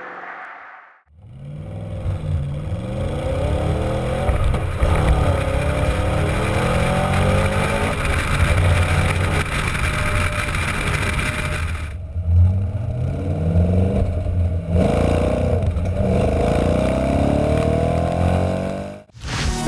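Wiesmann GT MF4's BMW V8 engine and exhaust under acceleration, its pitch climbing and dropping back again and again as it revs. The sound breaks briefly about two-thirds of the way through and cuts off just before the end.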